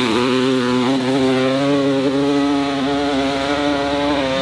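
Dirt bike engine held at high, steady revs.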